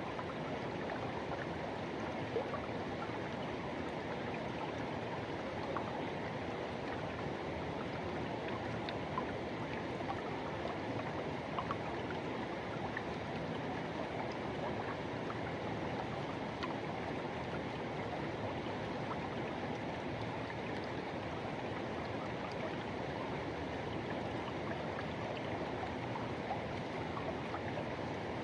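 Forest river rushing over rocks: a steady, even wash of flowing water with small splashes scattered through it.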